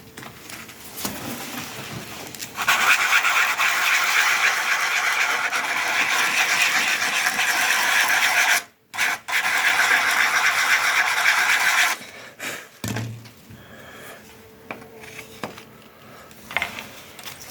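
Sandpaper being rubbed over a walking stick during its repair: a steady, loud rasping from about three seconds in until about twelve seconds, broken off once for a moment before nine seconds. Quieter scraping and handling sounds before and after.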